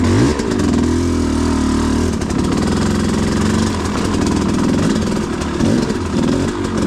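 Enduro motorcycle engine running, revving up at the start, holding for a couple of seconds, then rising and falling in pitch.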